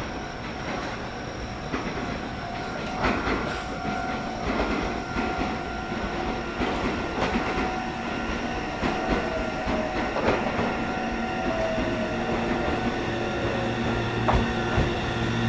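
Meitetsu electric train moving through the station, its wheels clacking over rail joints at irregular spacing. In the second half a motor whine slides down in pitch, and a steady low hum sets in near the end.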